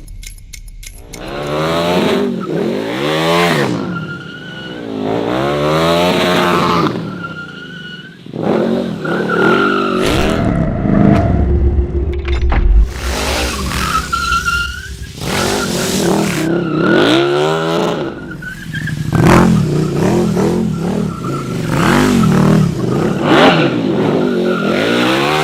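KTM 1290 Super Duke R EVO's V-twin engine revving up and down again and again, with the rear tire squealing as it drifts and spins.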